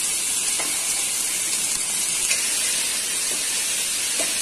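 Chopped bottle gourd sizzling in hot oil and cumin in a pressure cooker, a steady frying hiss, with a few light knocks of a steel ladle as it is stirred.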